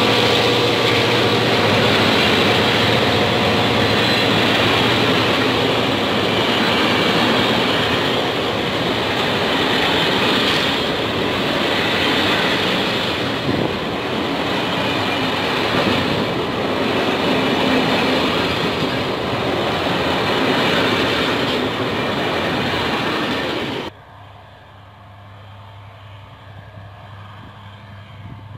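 Diesel-hauled train passing close by: a loud, steady rumble of wheels and engine that cuts off abruptly near the end, leaving only a quiet low hum.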